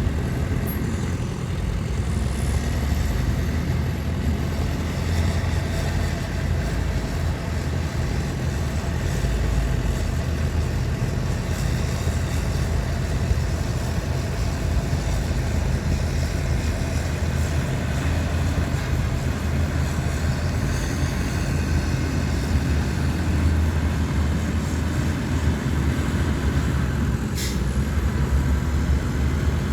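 Heavy diesel earthmoving machinery running steadily under load, a deep continuous engine drone. Near the end there is one brief, sharp high-pitched sound.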